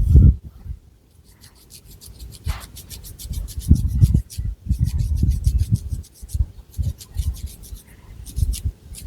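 Long fingernails scratching through thick hair and over the scalp close to the microphone, in quick rasping strokes several a second, with low bumps from the hand's contact underneath.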